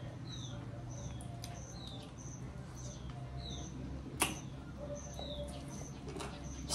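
A small bird chirping over and over in the background, a short high note alternating with a note that falls in pitch, several calls a second, over a low steady hum. A single sharp click about four seconds in.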